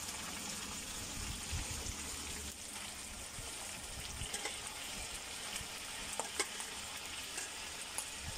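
Chicken, pork and garlic frying in oil in a steel wok, a steady sizzle with several sharp pops in the second half.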